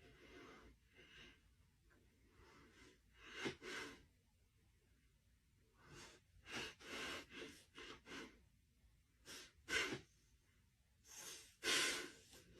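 Faint breathing: a series of short, noisy breaths and huffs, irregularly spaced, the loudest about halfway through and near the end.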